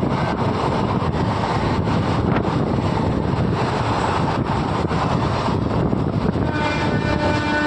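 Steady rumbling noise with wind buffeting the microphone. About six and a half seconds in, a train horn starts sounding, one held note with several tones stacked together.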